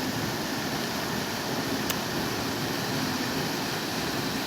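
Steady rushing noise, even and unbroken, with one faint click about two seconds in.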